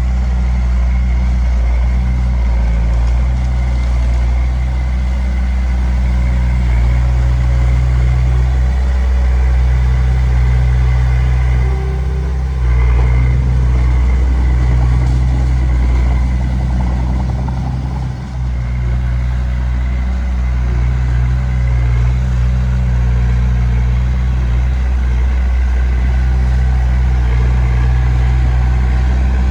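Diesel engine of a D20P bulldozer running steadily, with a brief dip in level about 18 seconds in.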